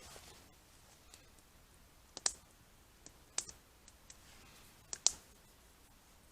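Small wood campfire crackling: sharp, irregular pops and snaps a second or so apart over a quiet background.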